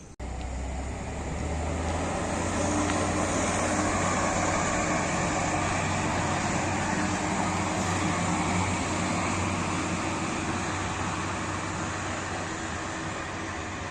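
Train running, a steady rumble of wheels with a low engine drone underneath. It starts abruptly and eases off slightly near the end.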